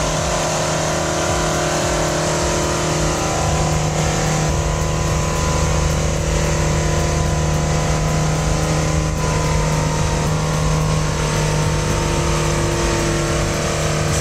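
Heavy diesel engine of an Oshkosh airport snow blower running steadily under load, its Cat C18 engine holding a constant drone over a steady rushing noise.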